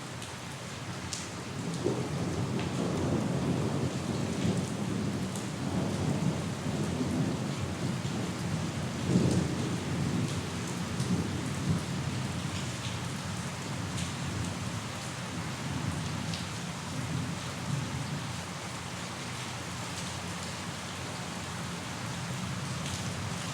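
Steady rain with scattered drops, under a long roll of thunder. The thunder swells about two seconds in, is loudest around nine seconds, and dies away over the following ten seconds.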